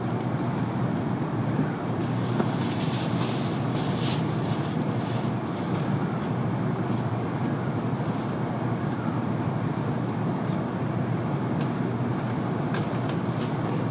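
Cabin running noise inside an N700-series Shinkansen car: a steady rumble of the train on the track, with scattered faint clicks and rattles.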